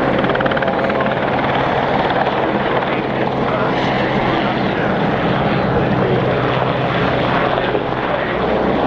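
Westland Sea King helicopter in flight: its twin Rolls-Royce Gnome turboshaft engines and rotors running steadily, with a constant low tone under the noise.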